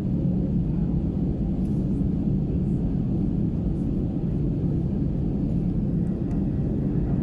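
Airbus A320 airliner heard from inside the cabin: a steady low rumble of its jet engines and airframe.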